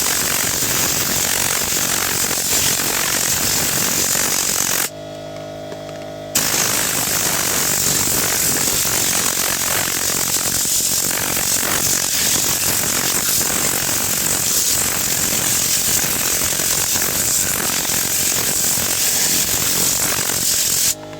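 Tornador compressed-air cleaning gun spraying a mist of cleaning solution onto a leather car seat, a loud steady hiss of air. It cuts off for about a second and a half about five seconds in, then starts again and stops just before the end.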